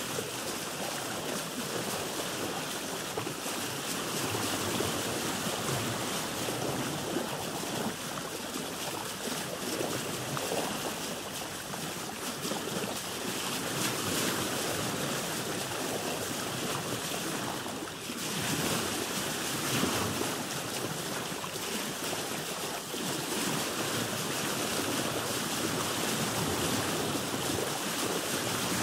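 Sea water washing and splashing around a boat, a steady rush of waves with a brief lull about two-thirds of the way through.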